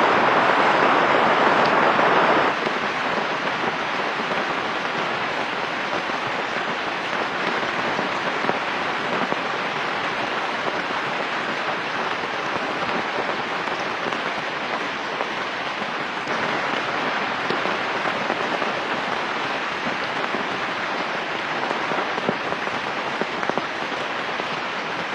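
Steady rain falling, with scattered individual drops ticking. It is heavier for the first two seconds or so, then settles to an even patter.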